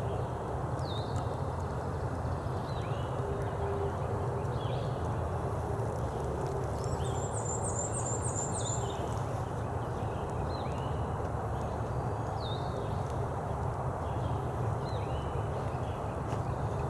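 A person walking, with steady rustling footsteps. Songbirds chirp repeatedly over it, with a brief high trill about seven seconds in.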